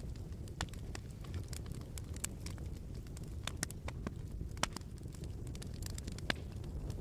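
Wood fire in a fireplace crackling: irregular sharp pops and snaps over a low steady rumble, with two louder pops, one just past the middle and one near the end.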